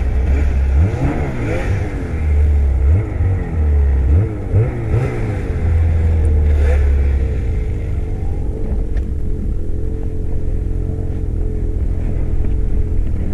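Snowmobile engine revving up and down again and again, then running more steadily from about eight seconds in.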